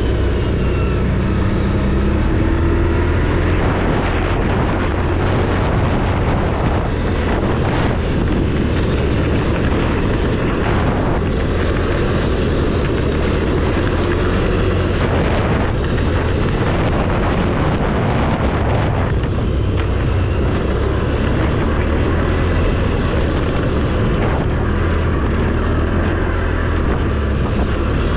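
ATV engine running steadily under way, picking up revs in the first few seconds.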